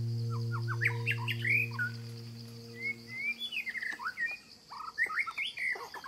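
Birds chirping: many quick, short rising and falling notes. A low held tone fades out about halfway through.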